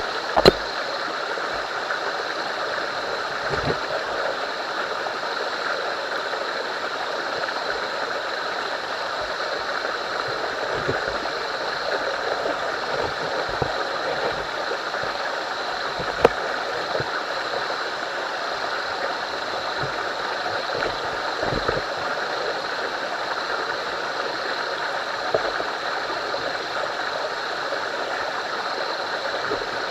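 Steady rush of a running stream, with a few sharp clicks.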